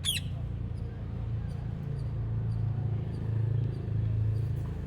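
A green parrot gives one brief shrill call at the very start, falling in pitch, over a steady low hum.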